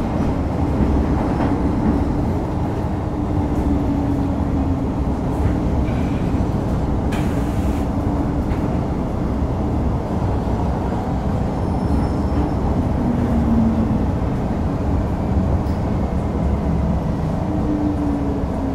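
Interior running noise of an MTR Metro Cammell M-Train (CM-Stock) electric multiple unit, with the whine of its GEC GTO chopper traction control as steady and slowly falling tones over a constant rumble while the train slows for an unscheduled stop between stations. A short hiss comes about seven seconds in.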